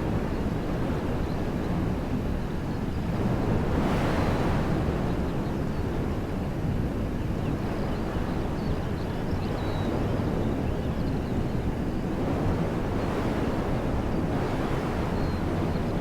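Wind blowing through woodland trees: a steady rushing that swells into a stronger gust about four seconds in. Wind also buffets the microphone.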